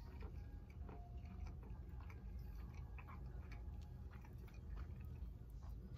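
Quiet chewing of a buffalo chicken wing close to the microphone, with scattered small mouth clicks over a low steady hum.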